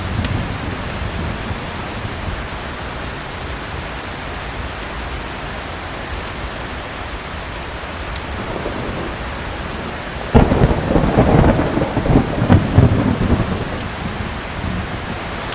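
Thunderstorm with steady heavy rain. A rumble of thunder fades away at the start, and about ten seconds in a sudden thunderclap breaks out and rolls on for about three seconds.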